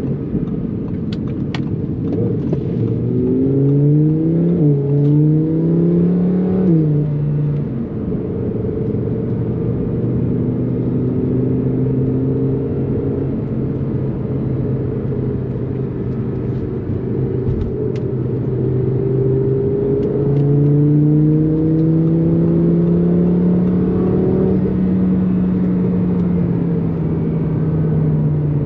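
Twin-turbocharged Audi R8 V10 engine pulling hard under way: its pitch climbs through a couple of quick upshifts a few seconds in, holds steady at speed, then rises slowly again in a high gear about two-thirds through before easing off a little. Steady rushing road and wind noise runs underneath.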